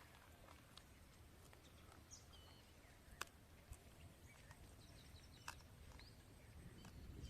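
Near silence: faint bird chirps now and then, a few soft clicks and a low background rumble.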